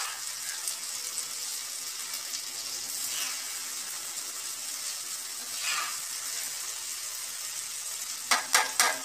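Chopped okra and tomatoes sizzling steadily on a hot flat griddle pan, with a spatula scraping through now and then and a quick run of sharp taps of the spatula on the pan near the end.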